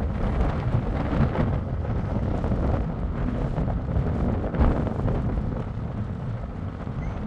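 Car on the move: steady low road and engine noise with wind buffeting the microphone, and a single thump about four and a half seconds in.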